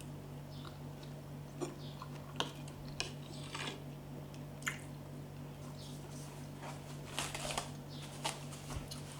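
Close-up eating sounds of someone chewing santol salad: soft wet squishes and short crunchy clicks at irregular intervals, over a steady low hum.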